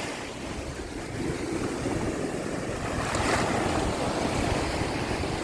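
Gulf surf washing onto the beach, with wind rumbling on the microphone.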